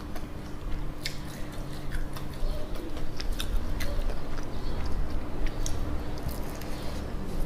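Close-up chewing of spicy glazed fried chicken: crisp crackles and wet mouth sounds scattered throughout, with a bite into a fried drumstick near the end.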